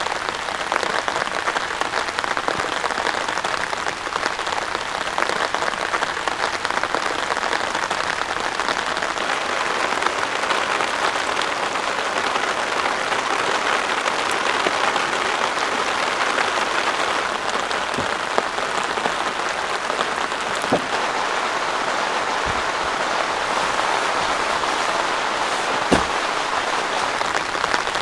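Heavy rain pouring steadily as a dense, even hiss, with a few sharper taps standing out, the loudest near the end.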